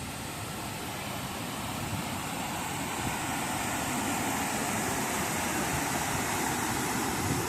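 Waterfall's rushing water: a steady, even roar with no breaks, growing slightly louder over the stretch.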